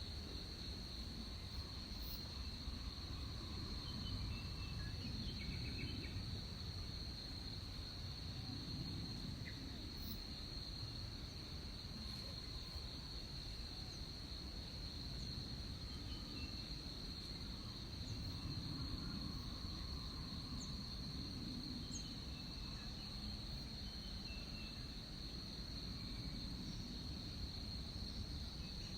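Rainforest insects keeping up a steady, unbroken high drone, with scattered short bird chirps and a low rumble underneath.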